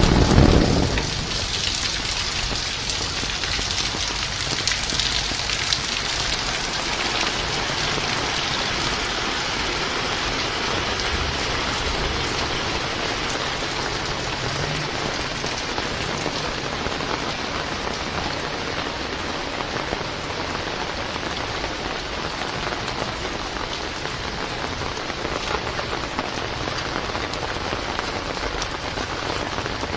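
Heavy rain falling steadily, a dense even hiss, with a brief low rumble right at the start that is the loudest moment.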